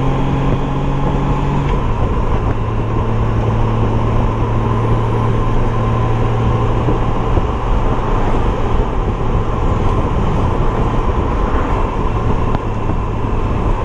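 Honda Gold Wing GL1800 trike's flat-six engine running at road speed, with steady wind and road noise over the microphone. The engine note steps down in pitch about two seconds in, then holds steady.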